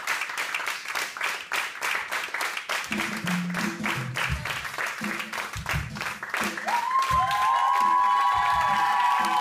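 Audience applauding, with forró music starting under the clapping: low bass notes come in about three seconds in, and a sustained melody line enters near the end.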